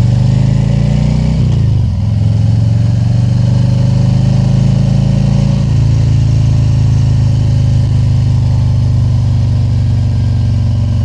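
Harley-Davidson Tri Glide Ultra's Milwaukee-Eight 114 V-twin running on the road, its pitch rising and then dropping at a gear change about a second and a half in, then holding steady at cruising speed.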